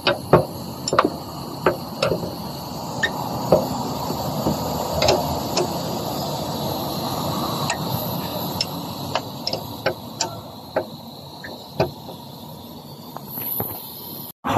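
Sharp metallic clicks and clinks of hand tools at irregular intervals, a few close together, while bolts are being taken off during fuel pump removal, over a steady background hiss.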